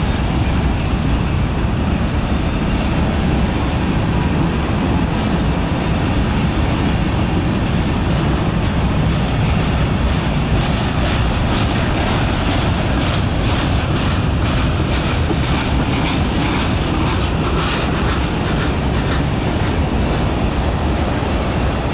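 Slow-moving freight cars (covered hoppers and a tank car) rolling past: a steady, heavy rumble with wheels clicking over the rail joints, the clicks coming thickest in the middle stretch.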